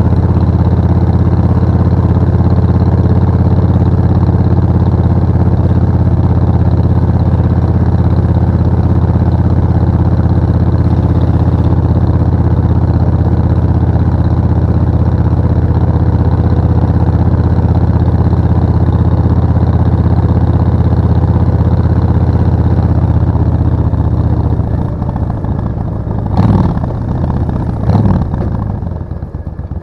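Suzuki VS1400 Intruder's V-twin engine running at a steady cruise while riding. Near the end the throttle closes and the engine note falls, then rises and falls twice in short revs.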